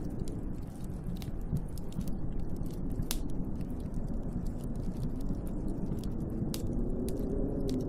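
Snowstorm wind blowing steadily, heard from indoors, with a wavering howl that rises and falls near the start and again near the end, and scattered sharp ticks throughout.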